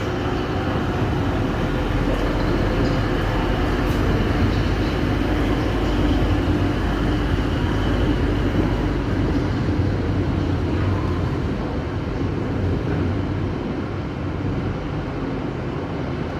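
Class 185 Desiro diesel multiple unit with its diesel engines running steadily, a continuous low drone with a few steady tones and no breaks.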